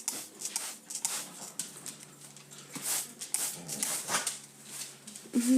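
Hand spray bottle misting water: a run of short, irregular hissing squirts, several a second.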